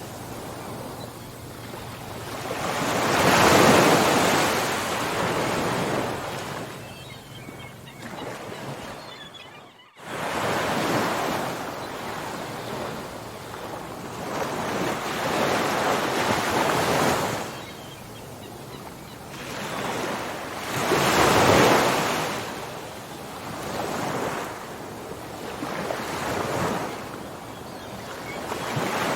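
Ocean waves breaking and washing up the shore, a rushing surf that swells and ebbs every few seconds, with two bigger surges. About ten seconds in the sound fades almost to nothing for a moment, then comes back suddenly.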